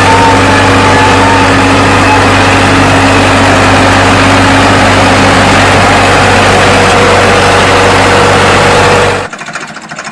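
Tractor diesel engine running steadily and loud, close to the microphone. About nine seconds in it cuts off abruptly to a quieter, fast, even ticking of an engine.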